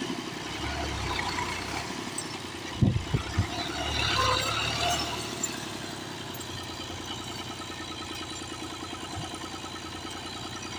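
A stuck tractor's diesel engine running steadily, with three sharp knocks just under three seconds in and a brief rise in loudness about four seconds in.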